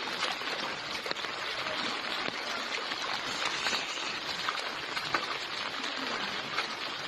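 Steady rushing of fast-flowing floodwater mixed with falling rain, an even hiss with a few small splashes.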